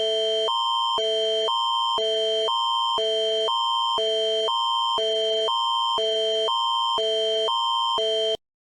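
Canadian Alerting Attention Signal (the Alert Ready tone): an electronic chord that switches between a higher and a lower pair of notes every half second, over a steady high note. It cuts off sharply near the end.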